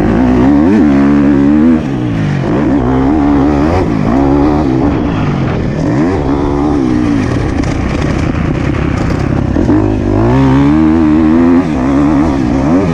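Motocross bike engine revving hard up and down, its pitch climbing and falling repeatedly as the throttle is worked. The throttle is chopped sharply about two seconds in and again near the end.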